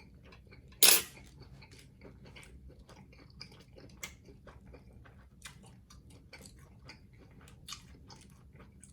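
Close-miked mouth sounds of a person eating: soft wet chewing smacks and clicks, with one much louder, sharp sound about a second in.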